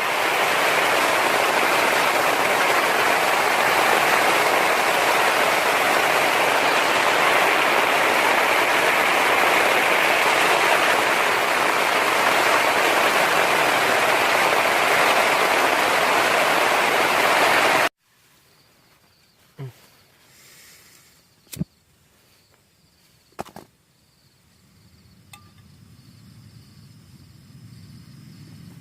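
Heavy rain falling, a loud steady hiss. About eighteen seconds in it cuts off abruptly to near quiet, with a few sharp knocks and a faint low rumble building near the end.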